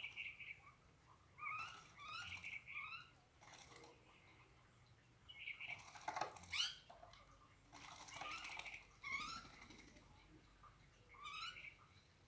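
Small birds chirping and calling in bouts of short, squeaky, gliding notes a second or two apart.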